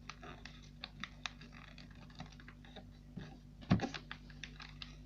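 Sheet of paper being folded and creased by hand: scattered small crackles and rustles, with one louder thump about three and a half seconds in.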